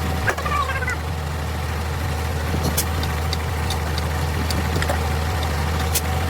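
Steady low hum of an idling engine, with scattered sharp metallic clinks of tools on metal.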